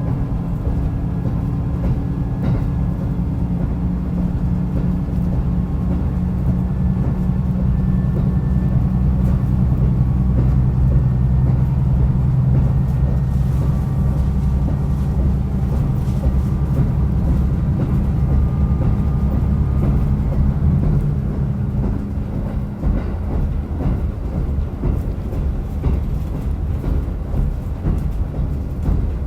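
Diesel railcar running on the line, its engine droning steadily under power, then easing off about three-quarters of the way through, leaving mostly wheel and track noise.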